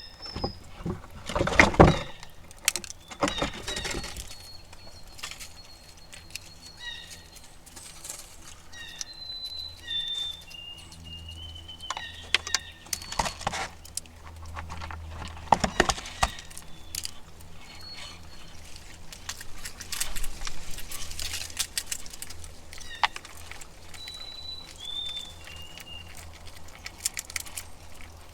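Small birds chirping in short whistled notes, with irregular knocks, clicks and scrabbling from squirrels feeding on the feeders; the loudest knocks come about two seconds in.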